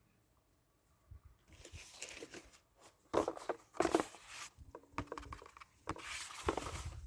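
Irregular rustling and crunching handling noises with a few sharp knocks, starting about a second in and loudest near the middle and toward the end.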